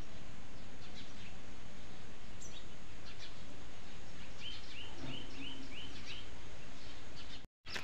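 Outdoor ambience of steady noise, with a small bird giving a quick run of about six short, evenly spaced chirps a little past the middle. The sound drops out for a moment near the end.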